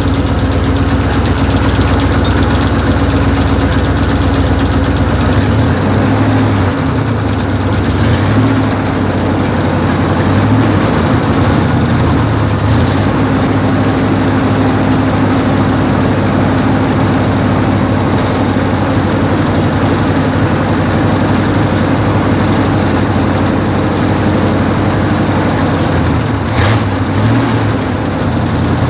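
Cadillac 472 V8 engine running at operating temperature while water is fed into its intake to steam the carbon out of the pistons and cylinders; a steady, heavy, low engine note that shifts about five seconds in, which the owner likens to a GP9 diesel locomotive.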